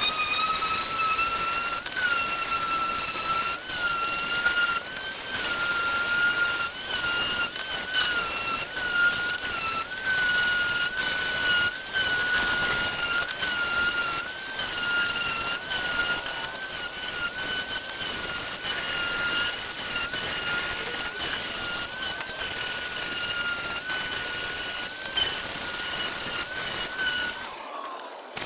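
High-pitched whine of an electric power tool's motor. It spins up at the start, runs steadily with small dips and wobbles in pitch as it works the wood, and winds down shortly before the end.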